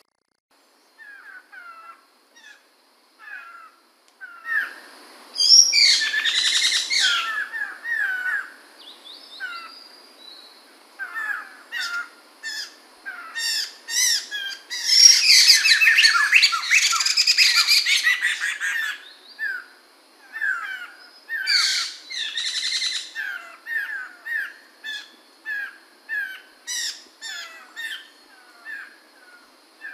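Poksay mantel laughingthrush singing: scattered short whistled chirps broken by loud bursts of rapid, rich song a few seconds long, the loudest burst about halfway through.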